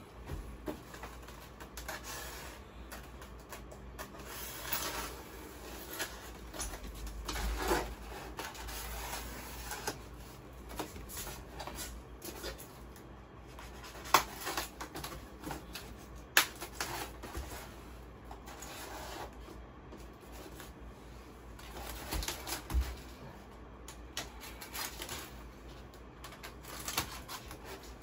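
Rustling, rubbing and scattered light clicks of packaging being handled as model kit parts are dug out of a styrofoam tray.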